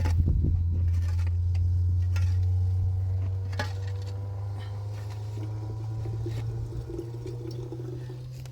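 A low, steady mechanical hum, its pitch slowly rising over the last few seconds, with scattered light clicks and knocks.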